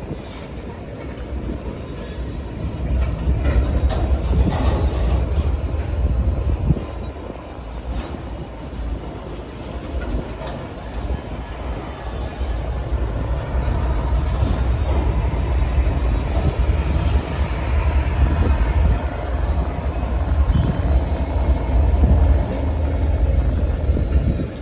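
Union Pacific freight train rolling past, a steady heavy rumble of wheels on rail that grows louder a few seconds in.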